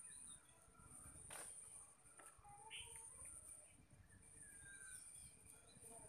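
Faint, scattered bird chirps and short calls over a steady high-pitched whine, with a single sharp tap about a second and a half in.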